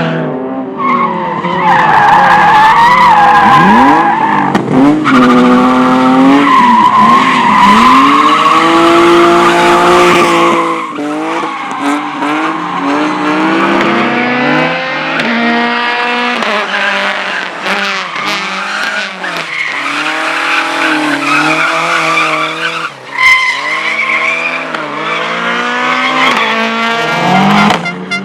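A competition car's engine revving hard, its pitch climbing and dropping again and again as it shifts gears and brakes through a slalom course, with tyres squealing and skidding on the turns. A single sharp bang stands out about 23 seconds in.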